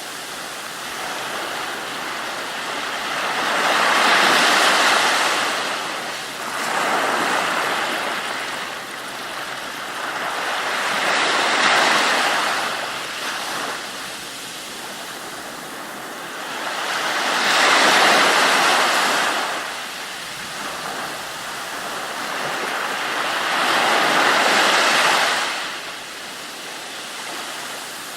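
Ocean waves washing in, a steady rush of water that swells into a loud surge every five to seven seconds and falls back.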